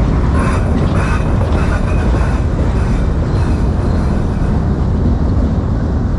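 Freight train cars rolling past with a steady low rumble, with brighter metallic rattling in the first two seconds or so.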